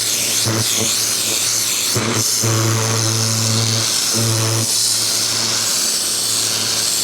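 Ryobi 2000 PSI electric pressure washer running, its water jet spraying with a steady loud hiss. The motor and pump hum rises louder in two stretches, from about two and a half seconds in and again just after four seconds.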